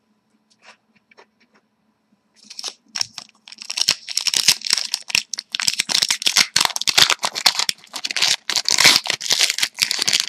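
Hockey card pack's foil wrapper being torn open and crinkled, a dense rapid crackling that starts about two and a half seconds in after a few faint clicks.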